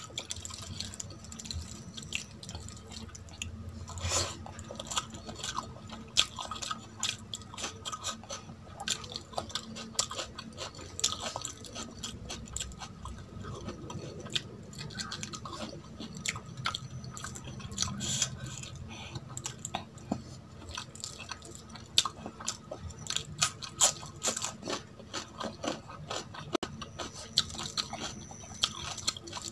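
Close-miked chewing and wet mouth sounds of someone eating rice with mutton curry by hand, with irregular small clicks and crunches throughout.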